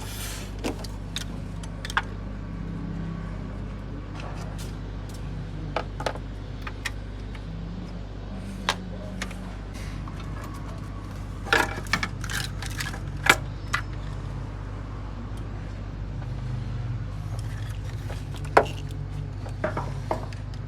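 Metal hand tools clinking and tapping on an engine as the valve (tappet) cover is being taken off, with a few sharp clicks scattered through and a cluster of them about two-thirds in. Under it runs a steady low hum.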